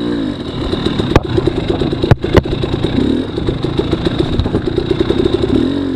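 Dirt bike engine running under throttle, its pitch dipping and climbing back several times as the throttle is rolled off and on. Sharp knocks about a second in and twice around two seconds in.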